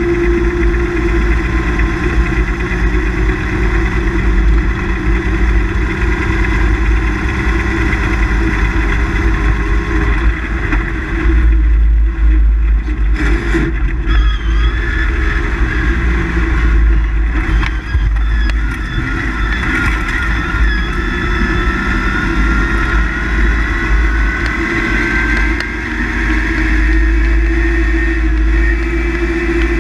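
Rally car engine heard from inside the cabin at full speed on a gravel stage, revving hard and rising in pitch through long pulls, easing off and back on for corners and gear changes. Two sharp knocks about halfway through.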